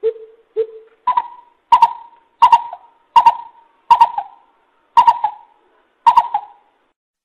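Greater coucal calling a series of deep, hollow hoots: two lower notes, then seven louder, higher hoots whose spacing slowly widens.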